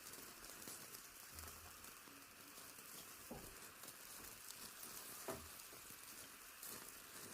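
Faint, steady sizzling of food frying in a pan, with two soft knocks about three and five seconds in.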